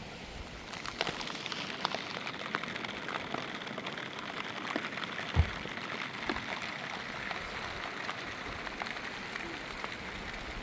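Rain falling, full of sharp individual drop hits, growing louder about a second in, with one heavier low thump about five seconds in.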